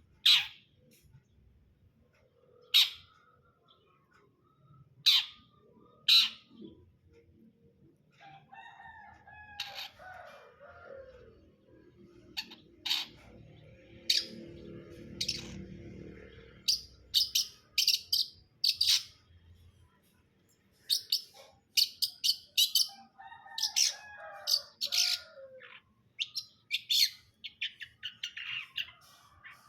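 Young long-tailed shrike (cendet) calling: sharp, high single chips every couple of seconds, then quick strings of chips through the second half. A few lower, falling whistled notes come in twice, and a low rumble rises and fades in the middle.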